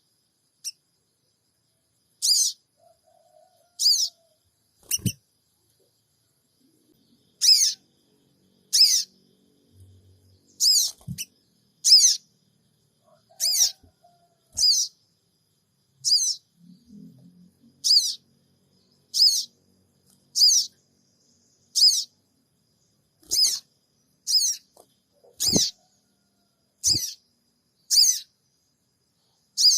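Sogon (crimson sunbird) repeating a short, thin, high-pitched 'cingik' call roughly every second and a half, with a few faint low knocks between calls. It is a lure call meant to get a kept sogon to answer and sing.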